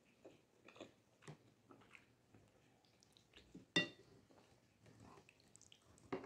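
Quiet close-up chewing of a mouthful of soft rice noodles, with small wet mouth clicks. About four seconds in, a wooden utensil knocks once against the ceramic bowl and rings briefly.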